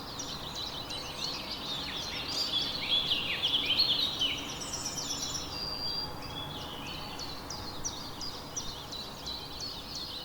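A chorus of small songbirds chirping and twittering, many quick overlapping chirps, busiest in the middle, over a soft background hiss.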